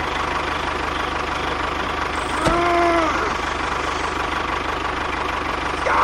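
A small engine runs steadily with a fast, even knocking rhythm. About two and a half seconds in, a brief pitched squeak or call sounds over it.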